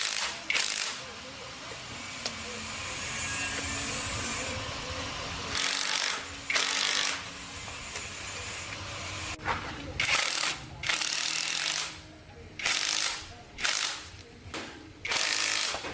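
Workshop tool noise during a truck gearbox repair: a longer steady run about a second in, then about ten short, sharp bursts of a ratcheting or power tool at irregular intervals.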